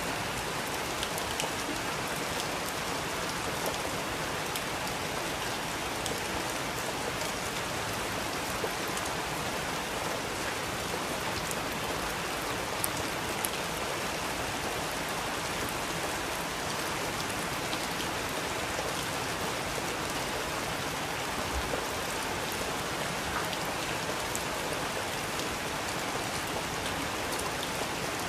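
Steady rain falling, an even hiss with the patter of individual drops striking a surface.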